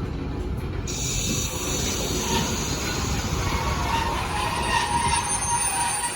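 A train running on the rails with a low rumble. Its wheels squeal against the rails, with thin high tones coming in about two seconds in, over a hiss that begins about a second in.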